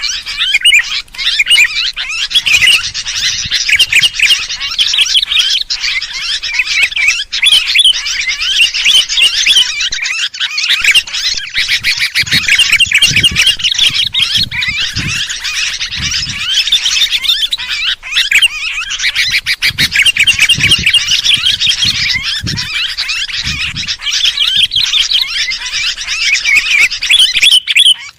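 Sooty-headed bulbuls chattering and calling continuously in a dense, noisy flock chorus, the busy 'kutilang ribut' sound used as a bird lure.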